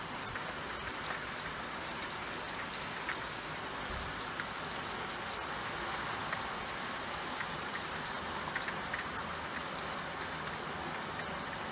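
Steady rain falling, an even hiss of rainfall with frequent small drops tapping close by.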